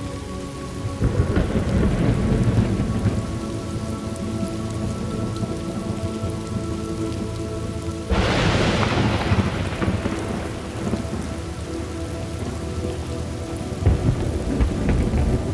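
Thunderstorm: steady rain with thunder. A low rumble comes about a second in, a sudden sharp crack near the middle rolls away over a couple of seconds, and another rumble comes near the end.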